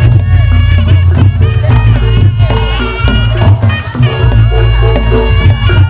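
Reog Ponorogo gamelan music, played loud: a nasal slompret (reed trumpet) melody over drums and gongs.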